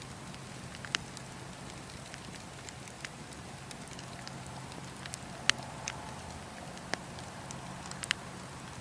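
Wood fire crackling: a steady low hiss with scattered sharp pops of burning wood, about half a dozen, the loudest a little past halfway.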